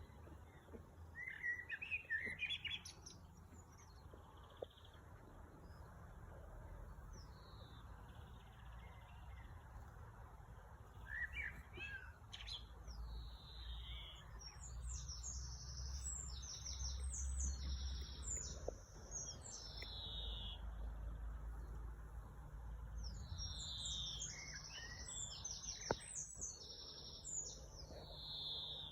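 Songbirds singing in phrases of quick chirps and downward-sliding whistled notes, short bursts at first, then longer runs of song in the second half, over a steady low rumble.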